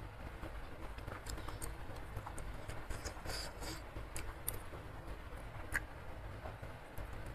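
Close-miked chewing of instant noodles: soft wet mouth clicks and smacks, with a few light clicks of a metal spoon and fork in the soup bowl.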